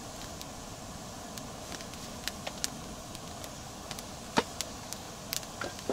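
Campfire crackling: scattered sharp pops and clicks over a steady low background noise, with the loudest crack about four and a half seconds in.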